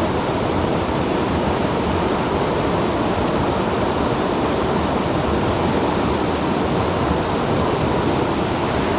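Mountain stream water rushing steadily, an even, unbroken sound of fast-flowing water.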